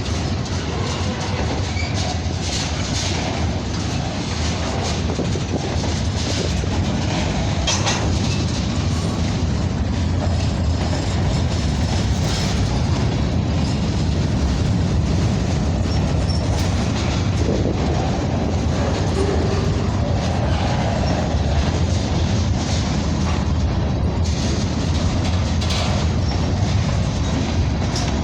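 Freight cars of a CN train rolling past: a steady rumble of steel wheels on the rails, with scattered clicks as the wheels cross rail joints.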